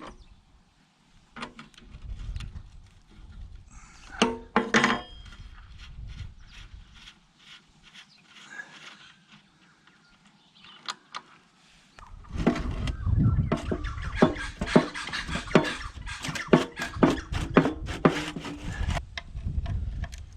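Irregular clinks and knocks of hard objects being handled, sparse at first, then a dense run of rapid clicking and clattering over a low rumble for about seven seconds in the second half.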